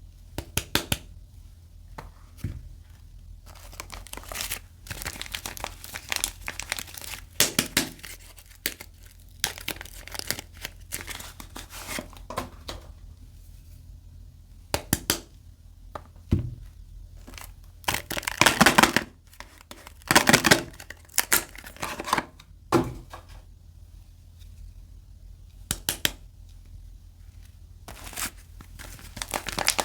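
Soap bar packaging being unwrapped by hand: wrapping crinkling and tearing in irregular bursts, loudest and busiest about two-thirds of the way through.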